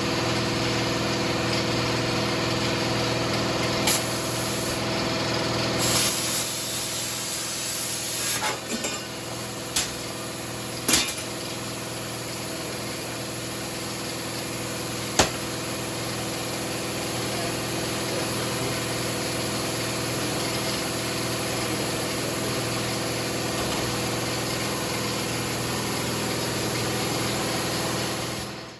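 Plasma cutter running as it cuts steel plate: a steady hum under a loud air hiss, with a few sharp clicks and a brighter burst of hiss about six seconds in. It cuts off suddenly at the end.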